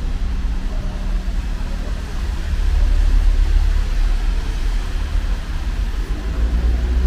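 Motor vehicle running close by: a low engine rumble with a steady hum, growing louder about two and a half seconds in, over a constant street hiss.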